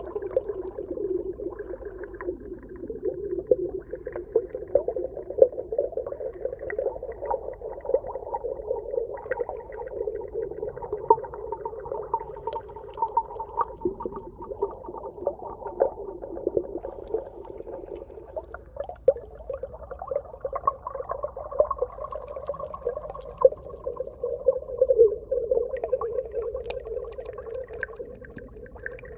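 Underwater ambience: a continuous low, wavering moan that drifts slowly in pitch, with many scattered crackles and clicks.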